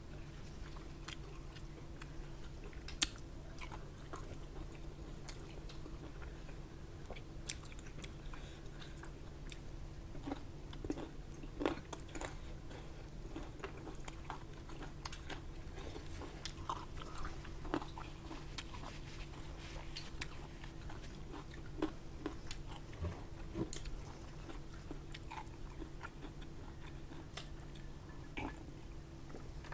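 Close-miked chewing of rice and pork curry eaten by hand, with many scattered short, sharp clicks and smacks, over a faint steady low hum.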